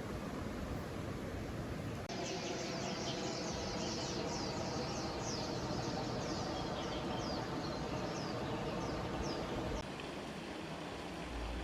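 Creek water running steadily, with a bird calling in a fast series of high, downward-sweeping notes, about two a second, from about two seconds in until near the end.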